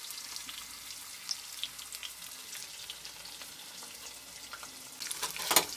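Marinated chicken liver frying in oil in a stainless steel pot: a steady sizzle with scattered small crackles. A sharp knock about five and a half seconds in is the loudest sound.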